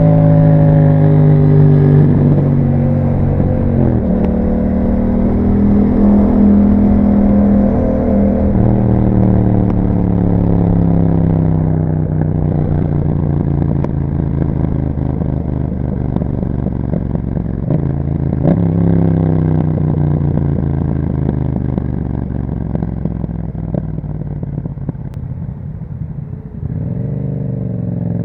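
Yamaha MT-07's parallel-twin engine running through an Akrapovic exhaust while riding. The engine note mostly sinks slowly as the bike rolls off, with sudden steps in pitch about 4, 8 and 18 seconds in, then climbs again near the end as the throttle opens.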